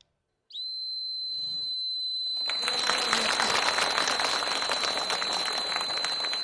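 An ordinary whistle blown in one long, steady, high note, sounded to call a released parrot back. Applause rises under it about two seconds in.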